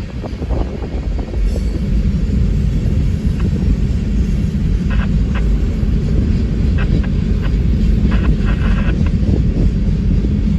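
Freight cars of an empty rock train rolling past: a steady low rumble, with a few short, sharp, high sounds from the wheels and cars in the second half.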